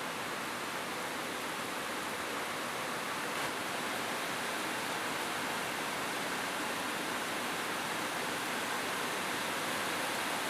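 Steady rain falling on a roof, an even hiss with no change in strength.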